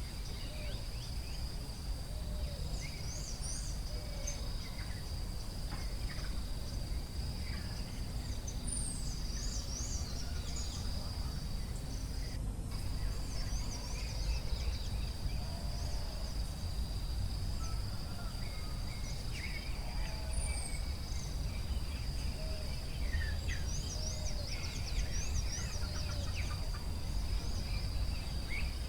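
Forest ambience: a steady high-pitched insect drone with many short bird chirps and whistles scattered throughout, over a steady low background noise.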